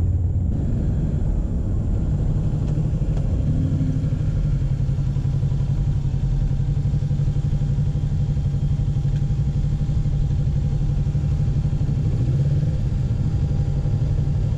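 Kawasaki Ninja 650's parallel-twin engine running steadily, with the pitch shifting slightly about twelve seconds in.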